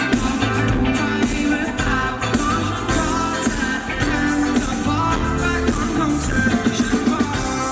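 Live pop-rock band playing a song, with drums, bass, guitar and a lead vocal.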